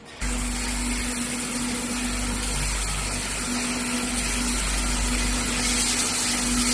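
A box washing machine switching on abruptly about a quarter second in, then running steadily: a strong hiss of water spray over a low motor and pump hum with a steady droning tone.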